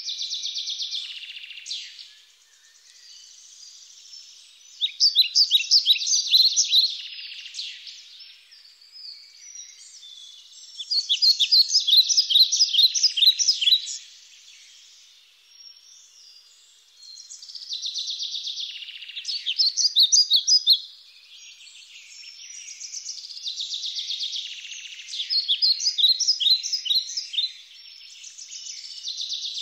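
A songbird singing: phrases of quick, high chirps and trills, each two to four seconds long, repeated every five or six seconds.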